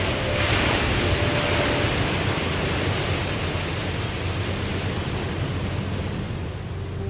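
Waterfall's steady rush of falling water, a continuous even hiss and rumble.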